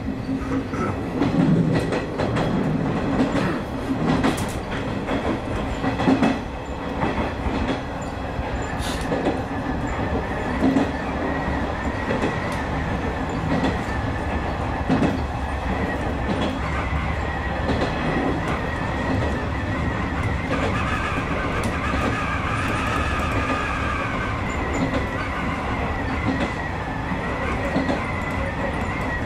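Izu Hakone Railway Sunzu Line electric train running along the track, heard from inside the front car: a rumble with sharp wheel clicks over rail joints in the first few seconds, then a steadier run with a high whine from about eight seconds in that rises and grows fuller a little past the middle.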